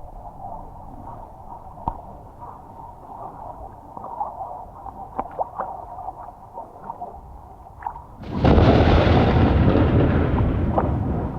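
A loud thunderclap about eight seconds in: a sudden crack that rolls on and slowly fades over the next few seconds. Before it, a steady low background with scattered faint ticks.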